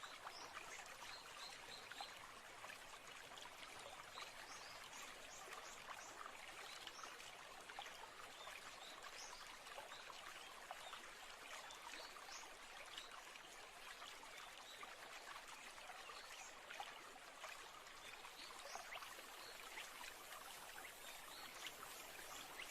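Faint nature ambience: a steady rushing hiss of flowing water, with scattered short, high bird chirps over it.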